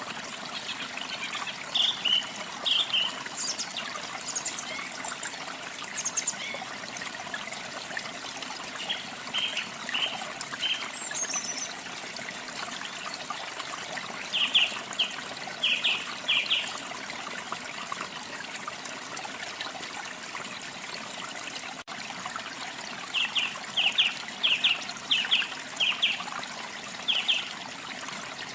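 Water trickling and running steadily, like a small stream or waterfall, with songbirds chirping in short clusters of quick high notes several times over.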